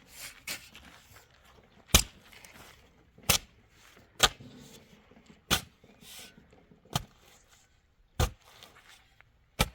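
Repeated sharp blows, about seven, struck at an even pace of roughly one every second and a third, like a tool striking hard material.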